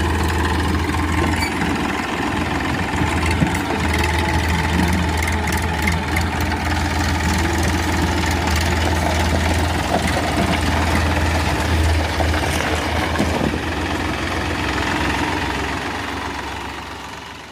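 Massey Ferguson tractor's diesel engine running steadily, fading away near the end.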